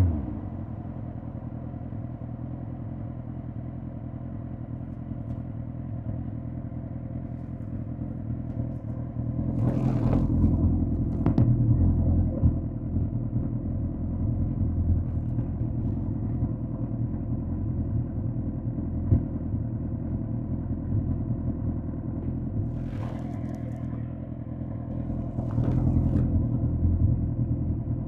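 Suzuki GSX-R1000 K5's inline-four engine idling steadily after slowing down, getting louder for a few seconds about 10 s in and again near the end, with a few short sharp sounds over it.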